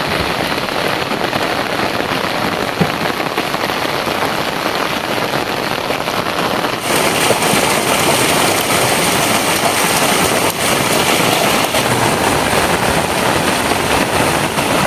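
Heavy rain pouring down steadily, a dense hiss that gets louder and brighter about seven seconds in.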